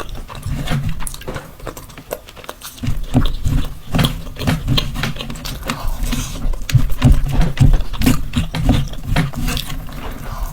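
Close-miked mukbang eating sounds: a man chewing mouthfuls of mutton mandi, with rapid wet clicks and lip smacks over low chewing pulses, briefly quieter about two seconds in.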